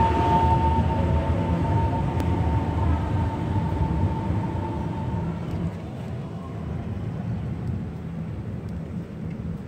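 Train rumbling, with a steady high whine over it that fades out about halfway through; the rumble grows quieter as the train moves away.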